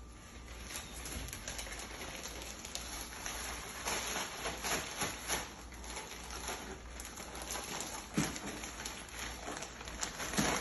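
A plastic zip-top bag rustling and crinkling as a chicken drumstick is shaken around in it with Shake 'n Bake coating mix, with irregular knocks and rustles.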